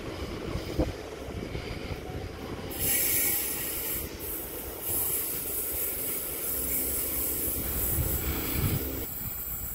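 Sydney Trains electric suburban train pulling away from the platform, running with a steady rumble. About three seconds in, a loud high hissing sound from the train starts and carries on as it draws away.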